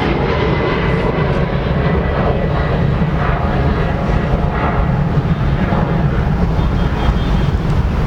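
Airliner engines running loud and steady as the plane passes, with a faint steady whine over a deep rumble.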